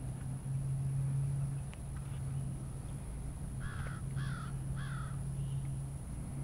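A bird calls three times in quick succession a little past halfway, over a steady low hum.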